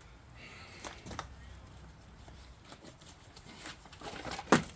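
Cardboard packing being handled: scattered rustles, scrapes and light knocks, with one sharp knock near the end.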